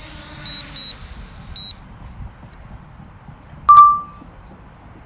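Drone remote controller beeping during landing: a few short high beeps in the first two seconds, then a single loud click with a brief ringing beep a little under four seconds in.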